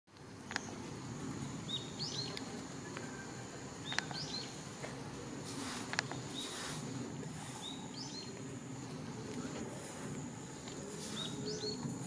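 Short high bird calls, quick hooked notes in twos and threes, heard four times. Beneath them run a steady high insect tone and a few sharp ticks.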